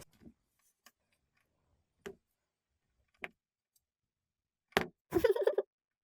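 A stylus tip tapping on an iPad screen fitted with a paper-texture film: a few separate light taps, then a short, louder run of quick scratchy strokes near the end.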